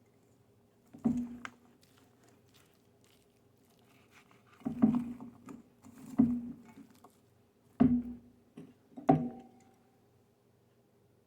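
Chicken pieces and cut fajita vegetables being put into a container: five dull knocks, one about a second in and four more between about five and nine seconds in, over a faint steady hum.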